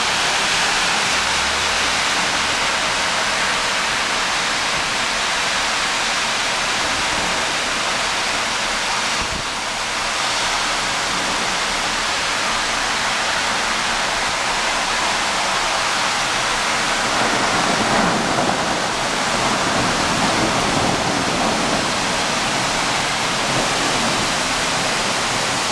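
Heavy rain pouring down in a steady, dense hiss, swelling briefly about two-thirds of the way through.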